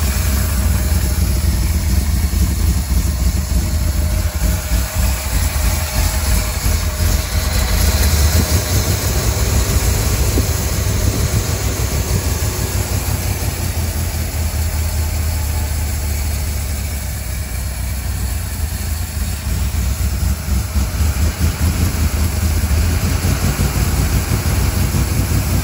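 1967 Corvette C2's carbureted V8 running at idle on a closed choke, a cold start after decades in storage. The engine note holds fairly steady.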